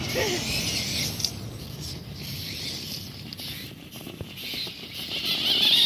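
Small electric motor and gearbox of a radio-controlled trail truck whining as it crawls over rough ground, with light crunching from the tyres. The high whine wavers, fades in the middle and comes back louder near the end.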